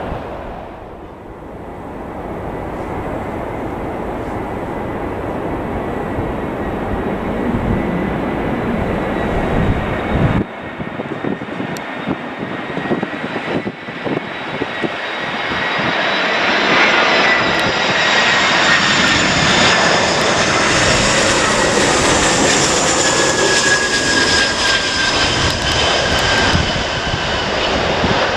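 Airliner jet engines close by, a steady rush of engine noise that turns into a louder whine with several high tones, building from about halfway through.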